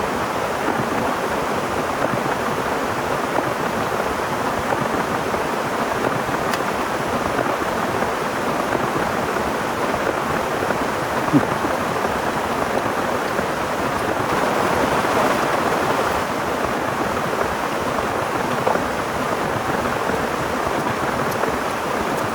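Heavy rain falling steadily, a dense, even hiss that swells slightly about two-thirds of the way through, with one sharp tap about eleven seconds in.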